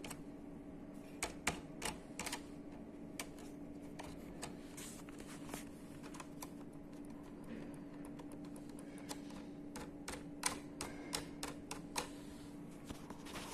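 Scattered light clicks and taps of small laptop parts being handled and fitted, over a steady low hum.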